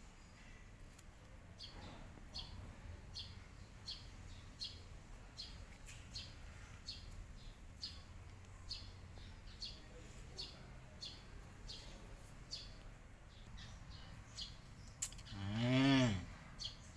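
A small bird chirping over and over, short high chirps about two a second. Near the end a loud drawn-out call, about a second long, rises and then falls in pitch.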